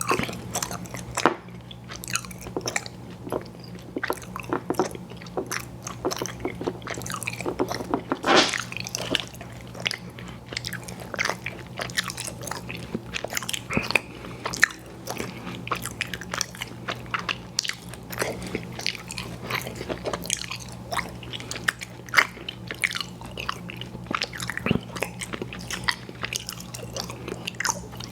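Close-miked chewing of chewy fruit candy: a dense, continuous run of mouth clicks and smacking, with a louder burst of bites about eight seconds in.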